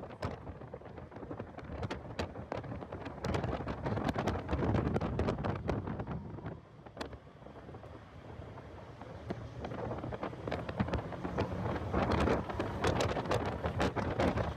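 Heavy wind buffeting and crackling on the microphone of a car lapping a race track, with vehicle noise beneath. It eases for a couple of seconds around the middle, then builds again.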